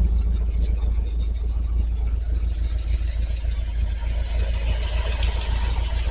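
Ford 390 FE V8 in a 1974 Ford F-350 idling steadily while it warms up after a cold start; the engine is still cold.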